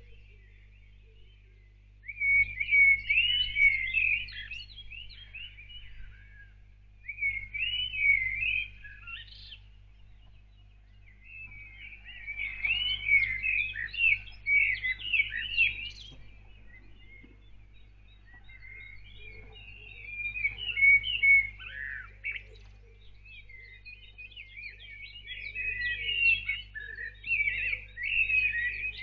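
A songbird singing five phrases of quick, warbling notes, each a few seconds long with pauses between, over a steady low hum.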